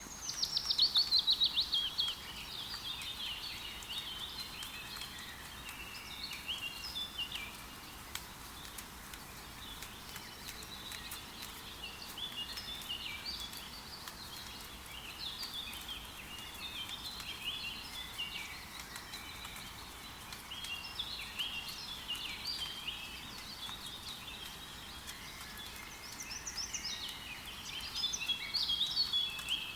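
Forest birds singing and calling over a faint, steady patter of light rain. It opens with a loud, rapid trill that falls in pitch, and the calling grows busy again near the end.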